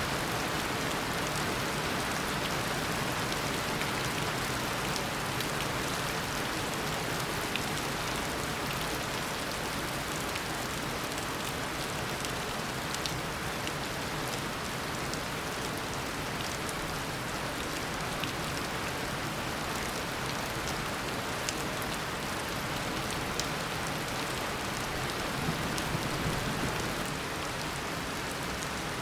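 Tropical downpour: steady heavy rain hissing evenly, with scattered individual drops ticking on surfaces. A faint low rumble swells briefly near the end.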